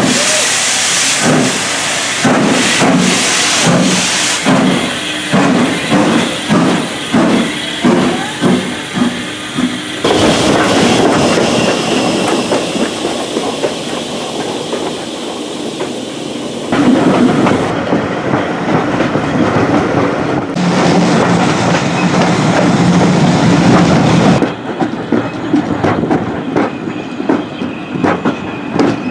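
Hunslet 0-6-0ST saddle-tank steam locomotive working a train: steam hiss and a rhythmic beat of about two strokes a second. The sound changes abruptly several times as the footage is cut.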